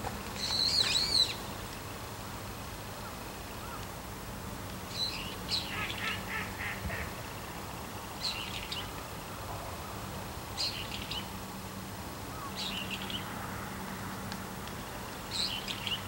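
Wild birds calling: a loud, high, thin call about a second in, then short high calls every two to three seconds. Around six seconds in there is a quick run of lower notes.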